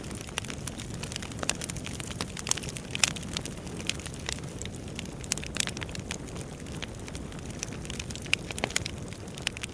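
Wood fire crackling, with irregular sharp pops and snaps over a steady low rustle of the burning logs.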